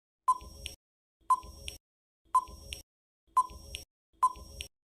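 Quiz countdown timer sound effect: five short beeps, about one a second, each followed by a brief fainter tail.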